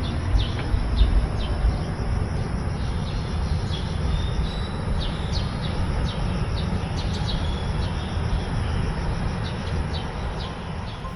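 Birds chirping in short, scattered calls over a heavy, uneven low rumble, with a steady high insect-like whine.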